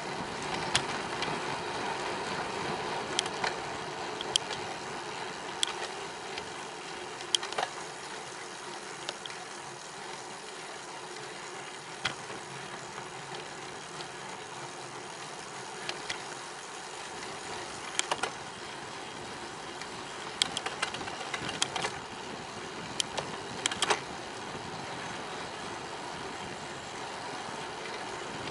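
Steady rushing noise of a bicycle ride, wind and tyres on the path, with scattered sharp clicks and rattles from the bike, bunched into quick clusters in the second half.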